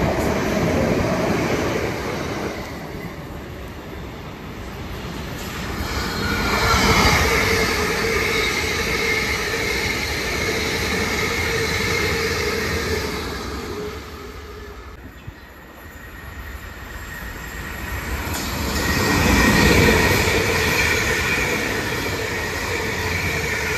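Electric multiple-unit passenger trains running through the station on the rails. The one at the start is fading as it pulls away. Trains pass on the far line with a rumble and a steady high whine, loudest about seven and about twenty seconds in, with a lull between.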